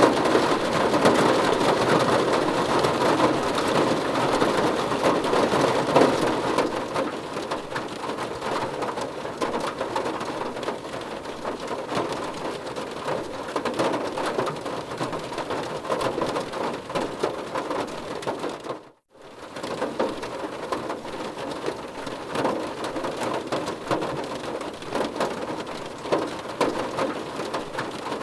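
Steady heavy rain falling, a dense even patter, louder for the first few seconds. About two-thirds of the way in it briefly fades out and straight back in.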